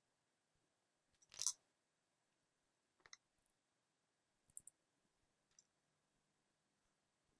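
Near silence broken by a few soft, short clicks and taps from handling small tools or parts at the workbench, the loudest about a second and a half in.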